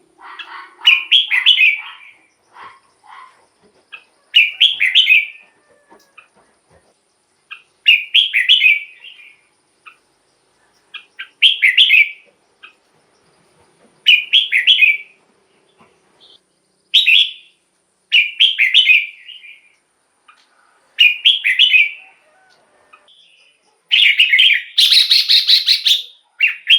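Red-whiskered bulbul singing short, bright phrases, one about every three seconds, with a longer unbroken run of song near the end.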